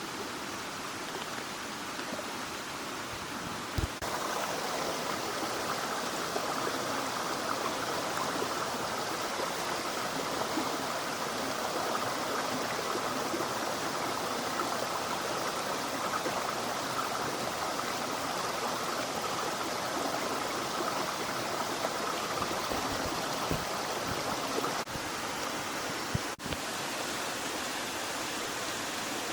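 Heavy rain falling steadily, an even rushing hiss that gets louder about four seconds in, just after a single short knock.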